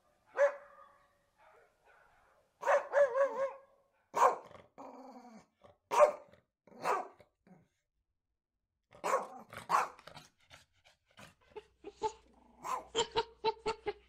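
Dogs barking: single barks and short runs of two or three, with near-quiet gaps between them.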